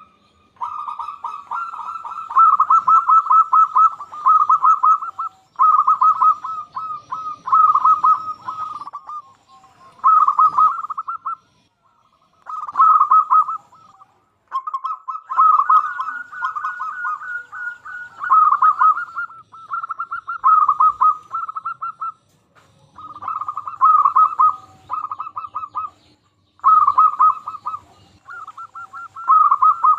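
Male zebra dove (perkutut) cooing over and over: rapid, rolling, pulsed coos in phrases a second or two long, with short pauses between them.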